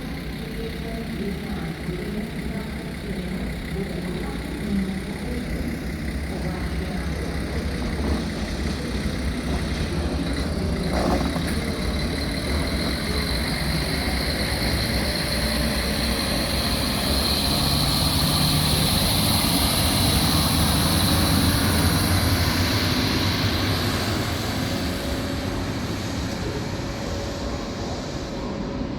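A rail vehicle passing: a steady rumble with a high whine that swells to its loudest about two-thirds of the way through, then eases off.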